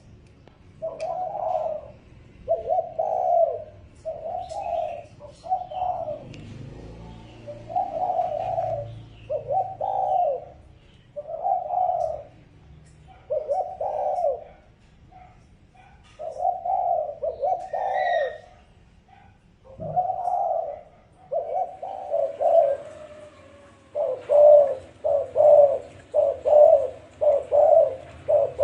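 Spotted doves cooing in repeated phrases, a lure call used to draw in wild doves. About three-quarters of the way through, the phrases give way to a quick run of short coos at about two a second, with a few faint chirps from other birds.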